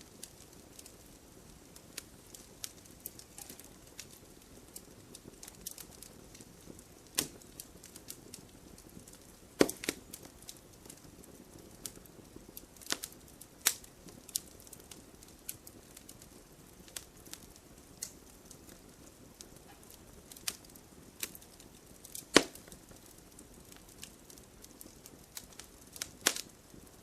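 Wood fire burning in a fireplace: irregular crackles and pops over a soft steady hiss, with a few sharper snaps, the loudest about ten seconds in and again past the twenty-second mark.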